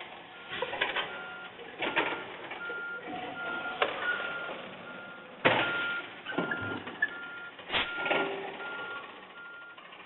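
Garbage truck's reversing alarm beeping steadily, about two beeps a second, over a run of sharp metallic clanks and bangs, the loudest about five and a half seconds in.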